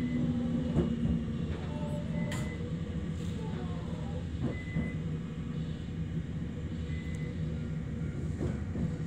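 Electric local train rolling slowly into a station, heard from the cab: a steady low running rumble with a few sharp clicks. A short high beep repeats about every two and a half seconds.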